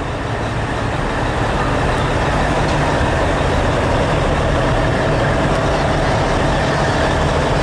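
A diesel truck engine idling steadily, a constant low rumble with a faint steady whine above it.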